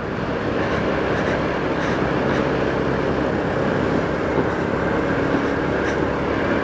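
Motorcycle running steadily on the move, a steady engine hum under an even rush of wind and road noise.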